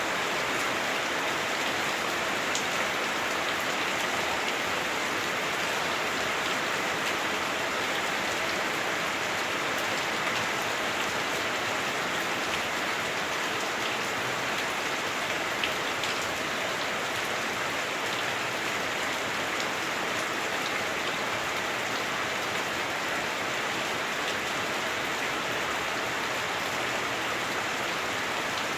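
Heavy rain drumming steadily on a house roof, heard from indoors, with scattered louder drips and ticks among the steady patter.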